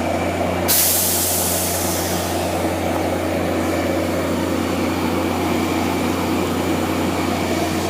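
Diesel locomotive idling with a steady low drone. About a second in, a sudden loud hiss of released air starts and fades away over a couple of seconds.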